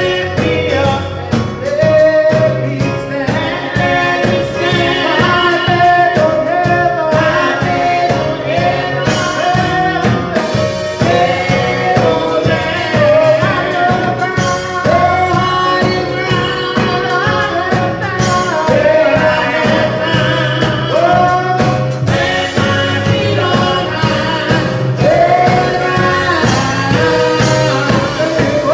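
Gospel singing: voices over a band with a steady beat.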